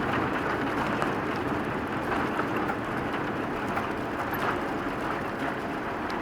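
Steady rushing cabin noise of a Boeing 787-9 airliner with GE engines slowing down just after landing, with engine and airflow noise easing slightly.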